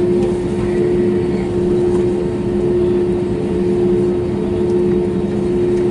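Cabin noise inside an Airbus A320neo taxiing on the ground: a steady drone from the idling engines and air system, with a constant low hum that does not change.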